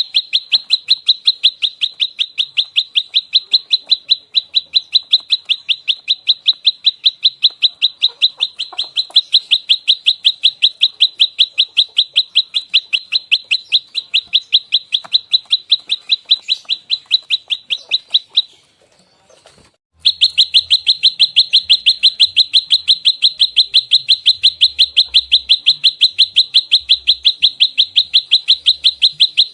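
Prenjak lumut (a prinia) giving its rapid 'fighting' call: a fast, tightly packed train of sharp, high chirps at about six a second. The run breaks off for about a second and a half past the middle, then starts again at the same pace.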